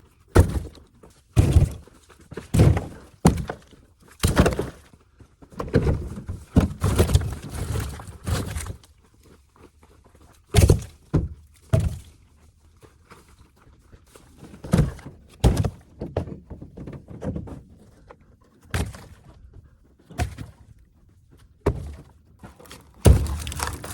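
Irregular heavy wooden thunks from rounds of solid dead oak being handled. There are about fifteen separate knocks, some in quick pairs, with short quiet gaps between them.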